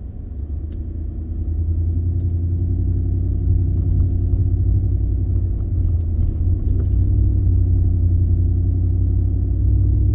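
A 2015 Ford F-150's 5.0 V8 and road noise heard from inside the cab while the truck is driven, with a steady low hum that grows louder over the first few seconds and then holds. The engine pulls without stuttering or dropping back to idle: the new throttle body has cured the hesitation.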